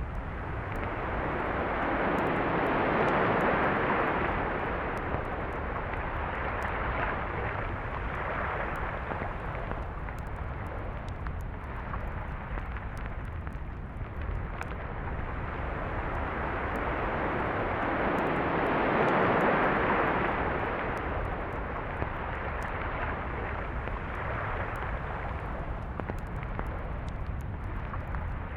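Sea waves washing onto a beach, the noise swelling and ebbing in slow surges, loudest about three seconds in and again near the middle, over a steady low rumble.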